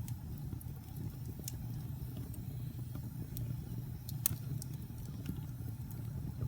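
Log fire burning in a fireplace: a steady low rumble of flames with scattered sharp crackles and pops of burning wood, the loudest pop a little past four seconds in.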